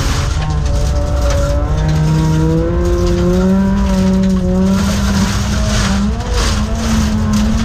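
Volvo 850 folk-racing car's five-cylinder engine running hard under racing load. Its pitch steps up a few times, climbs steadily through the middle, dips briefly about six seconds in, then rises again.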